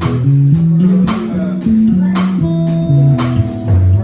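Band music: guitar over a moving bass guitar line, with a steady drum beat of about two hits a second.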